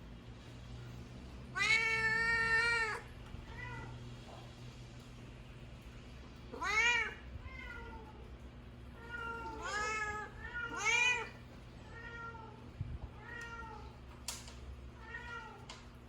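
Cats meowing: one long, loud meow about two seconds in, more loud rising-and-falling meows around the middle, and softer, shorter meows in between.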